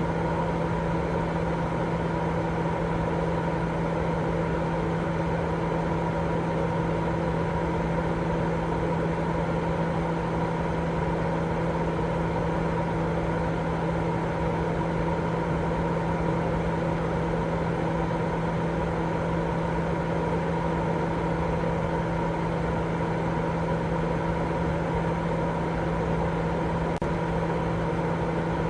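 Continuous sleep-aid noise: an even rushing hiss, weighted toward the low and middle range, with a steady low hum and a fainter higher tone running under it, unchanging throughout.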